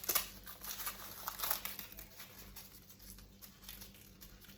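Rustling and scratching of short hair being combed and smoothed flat against the head, in short irregular strokes.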